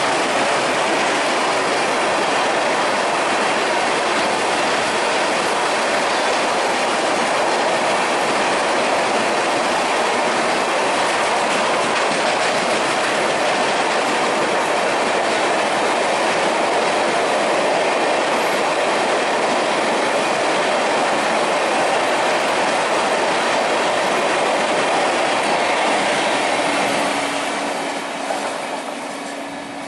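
Passenger train of LHB coaches passing at speed, its wheels running on the rails in a loud, steady rush. The rush fades away in the last few seconds.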